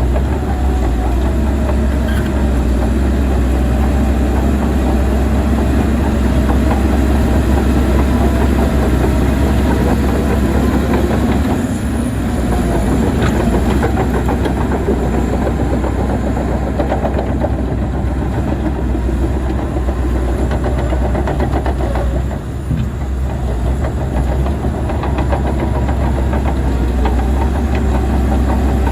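Heavy diesel earthmoving machinery working: a deep engine running under load with a continuous clanking rattle of steel crawler tracks, briefly easing once about two-thirds of the way through.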